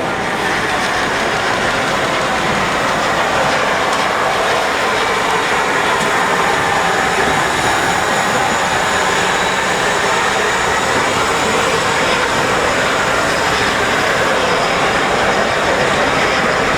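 A train at a station platform, making a loud, steady noise.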